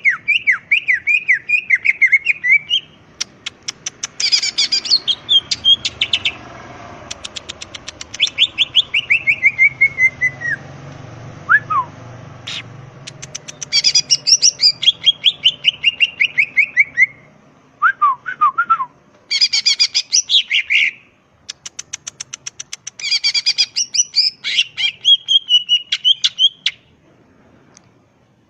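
Green leafbird (cucak ijo) singing vigorously: bursts of rapid chip notes, fast trills and falling whistled sweeps, in phrases of a few seconds separated by short pauses.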